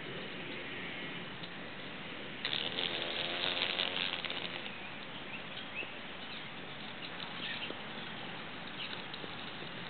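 A large insect's wings buzzing in a brief burst with a crackle, about two and a half seconds in, lasting about two seconds.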